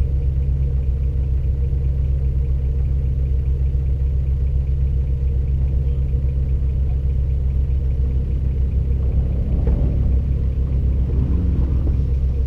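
Off-road SUV engine idling: a steady low rumble.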